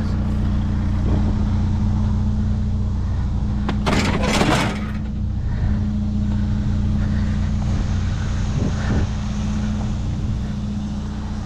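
Truck engine running steadily with a low hum, with a brief noisy clatter about four seconds in.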